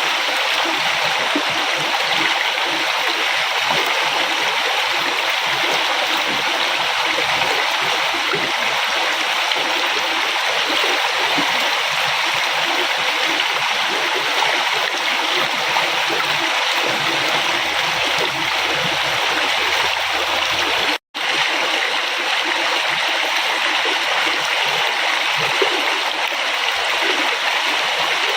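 A river flowing with a steady, even rush of water. There is a split-second dropout to silence about three-quarters of the way through.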